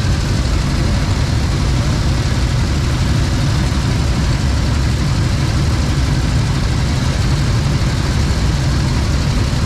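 Motorcycle engine running steadily, a loud continuous low rumble with no change in pace.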